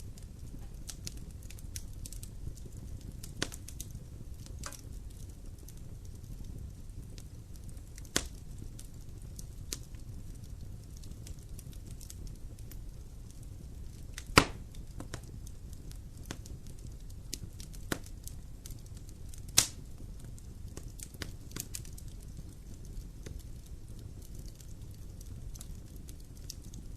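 Wood fire burning in a fireplace: a steady low rumble of flame with scattered sharp crackles and pops, two louder pops about 14 and 20 seconds in.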